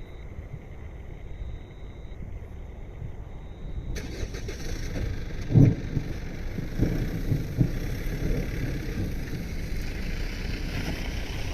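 Low, steady road and engine rumble heard from inside a moving car. There is one sharp thump about halfway through, followed by a few smaller knocks.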